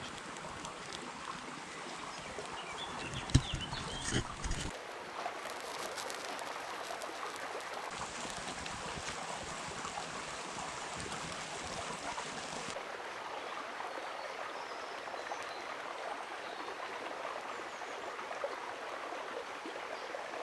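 River water running steadily, with a few bird chirps in the first seconds and a couple of sharp knocks about three to four seconds in. The water sound changes abruptly a few times.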